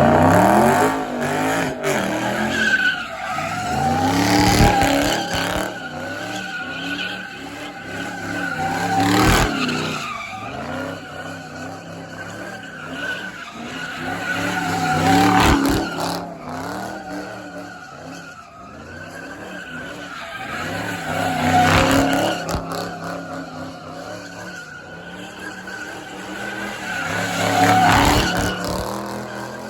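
Car engine revving hard in repeated surges, about every six seconds, with tyres squealing against the pavement.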